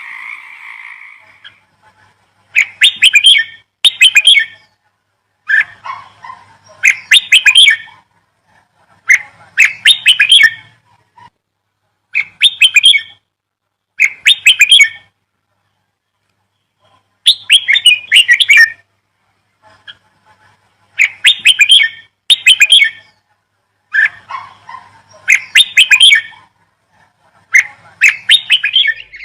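A bird chirping in short bursts of rapid notes, usually two bursts close together, repeated about every three to four seconds.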